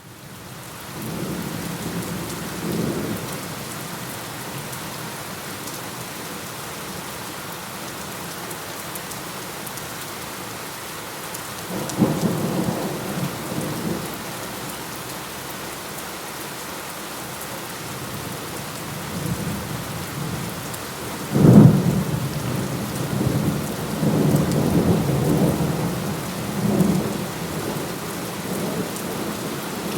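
Steady heavy rain rising quickly out of silence at the start, with thunder throughout. A low rumble comes in the first few seconds, a crack about twelve seconds in, and the loudest clap about twenty-one seconds in, followed by rolling rumbles.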